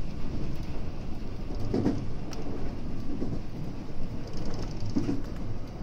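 Running noise of a JR West 521 series electric train heard from inside the cab: a steady low rumble of wheels on rail, with a few heavy clunks about a second and a half apart as the wheels cross rail joints and points.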